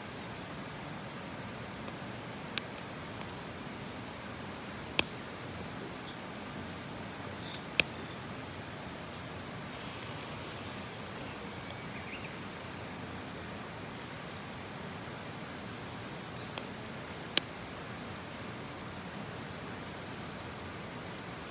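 Wood campfire burning with a steady hiss and a few sharp, widely spaced pops, and a brief higher hiss about halfway through.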